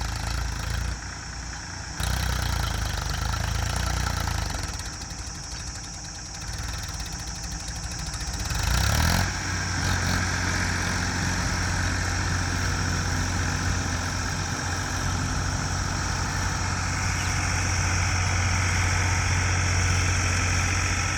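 Tractor engine running steadily. It swells louder for a moment about nine seconds in, then settles into a strong, even low drone.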